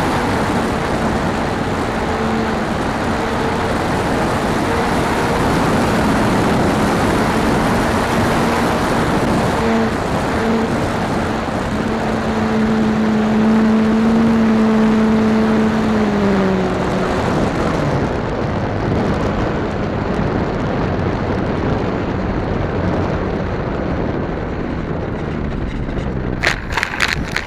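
Electric motor and propeller of a ParkZone F4U-1A Corsair RC plane in flight, a steady whine over heavy wind noise on the microphone. The whine drops in pitch and fades about sixteen seconds in as the throttle is pulled back. A few sharp clicks and knocks come near the end.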